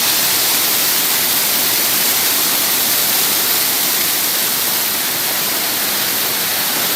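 Waterfall, water rushing in a loud, steady hiss.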